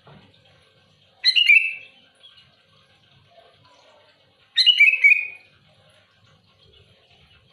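Sooty-headed bulbul (kutilang) calling loudly: two short bursts of quick notes, about three seconds apart, over faint chirping in the background.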